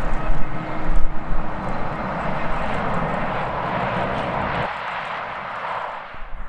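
Departing jet airliner's engines running loud, with strong wind gusts buffeting the microphone. About two-thirds through, the deep rumble drops out abruptly, leaving a fading engine rush.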